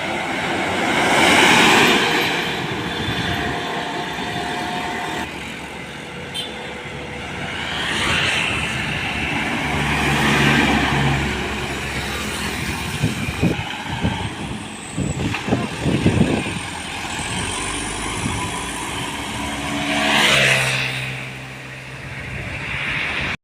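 Road traffic passing close by: several trucks and cars go past one after another, each pass swelling and fading, with diesel engines running. A run of sharp knocks and rattles comes in the middle.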